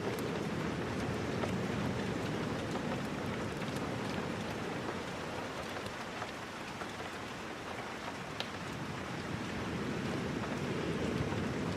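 Steady rain falling, a dense even hiss with a deeper rush that swells and eases slowly. A few faint sharp ticks sound through it, the clearest about eight seconds in.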